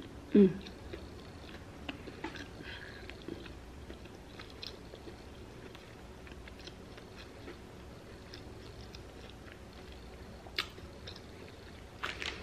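A person biting into a soft fast-food sandwich and chewing with the mouth close to the microphone: soft wet chewing with scattered small clicks. A brief low falling sound about half a second in is the loudest moment.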